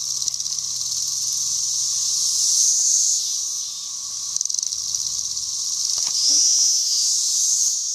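Dense chorus of 13-year periodical cicadas calling en masse, a loud, steady, high-pitched hissing drone that swells and eases in waves, with a fainter steady lower buzz under it.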